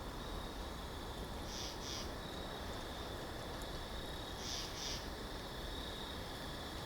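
Winter forest ambience: a steady low rush of wind, with a small bird giving a high two-note call twice, about three seconds apart.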